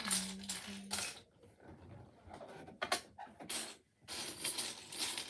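Loose plastic Lego pieces clattering and rattling in a series of short bursts as someone sifts through them looking for a part. A person hums two short low notes near the start.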